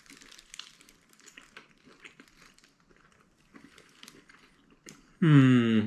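Soft crinkling of a paper burger wrapper with small scattered clicks of handling and eating, then near the end a loud, brief hummed vocal sound of approval from the person tasting.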